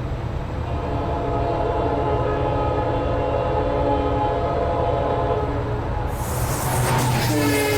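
An Indian Railways express locomotive sounding a long horn blast as it approaches at speed over a heavy engine rumble. About six seconds in, a loud rush of noise arrives as the train reaches the microphone, and the horn's pitch drops slightly as it passes.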